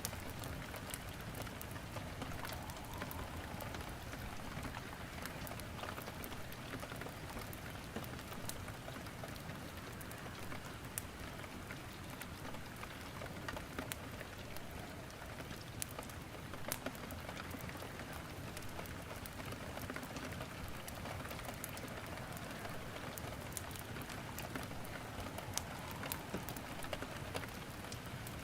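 Steady rain falling, with scattered sharp crackles and pops of wood burning in a fireplace.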